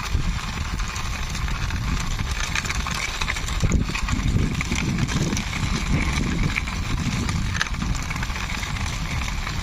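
Plastic toy vehicle pushed along by hand, its wheels rolling and scraping over the ground with a steady low rumble and scattered small clicks.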